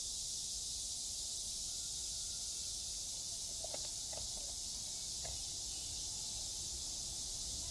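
Steady high-pitched drone of an insect chorus, unchanging in level throughout.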